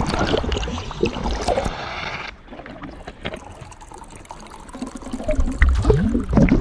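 Underwater trickling and bubbling of water, quieter for a couple of seconds in the middle.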